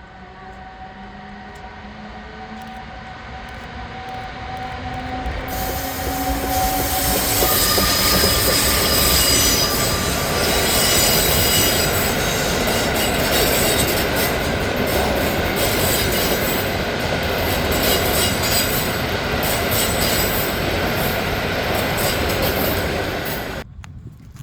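Train passing close by, growing louder as it approaches, with wheel squeal and rail noise; the sound cuts off suddenly near the end.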